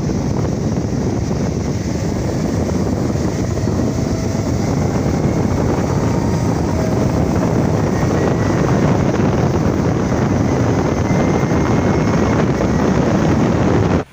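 A vehicle driving on the road: steady road and engine noise with heavy wind buffeting the microphone. The sound cuts off suddenly at the end.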